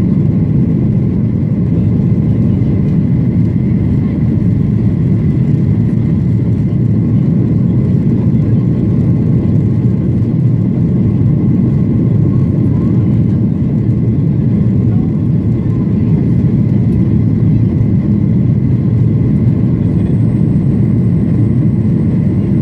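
Steady cabin noise of a Boeing 737-800 with its CFM56-7B jet engines running under power, a deep, even rush with a faint steady whine above it, heard from inside the cabin.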